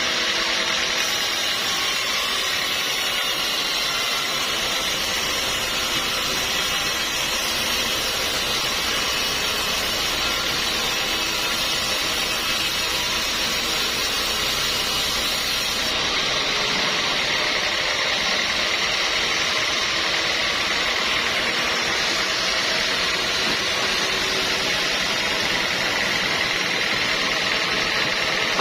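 Sawmill saw running and sawing teak timber: a loud, steady mechanical whine and rush that shifts in character about a second in and again about halfway through.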